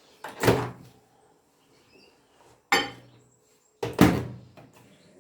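Microwave oven being loaded and shut: three separate clunks and knocks, the loudest about four seconds in, as the dish goes in and the door closes.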